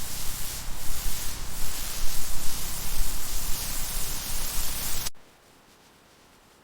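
Loud, steady hissing spray that surges a couple of times early and cuts off suddenly about five seconds in.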